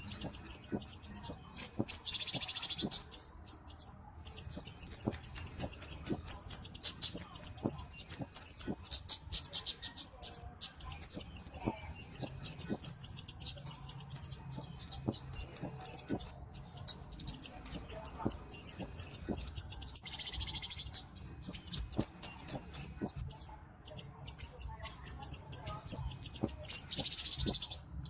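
Kemade (cabe-cabean) flowerpecker calling: long runs of rapid, very high-pitched chips and ticks, broken by short pauses. A few brief buzzy notes come in about two seconds in, about twenty seconds in, and near the end.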